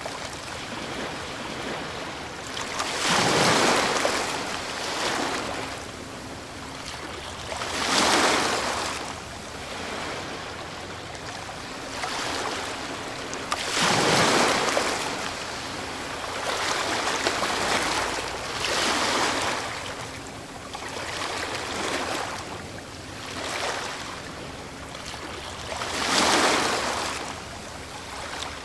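Ocean waves breaking on a shore, each one rising into a rushing wash and falling back, about every five or six seconds, over a steady background of surf.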